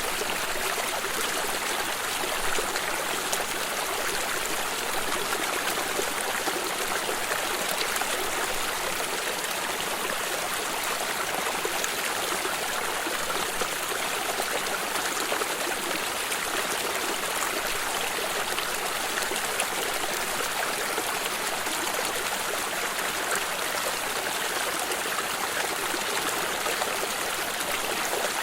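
Water stream running steadily over stones, a continuous rushing with fine trickling detail.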